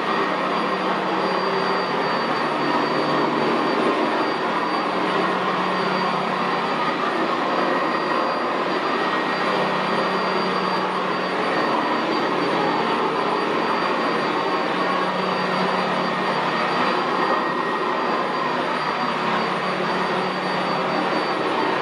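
Sanitaire SC679J commercial upright vacuum running steadily over carpet, a constant motor whine with a low hum underneath.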